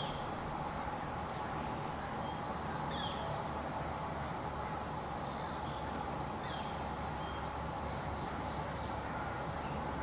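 Short, high bird chirps repeating every second or two over a steady low background rumble and hum.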